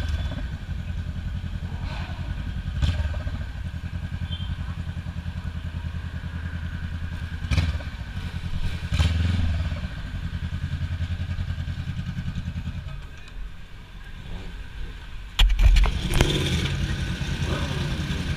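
Motorcycle engine idling with a steady, even pulse. Its level dips for a couple of seconds, and a sharp loud knock comes about three-quarters of the way through.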